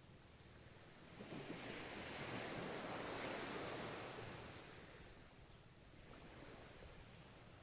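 Ocean waves: one wave swells in about a second in, breaks and washes up, then fades away a few seconds later, over the steady background wash of the surf.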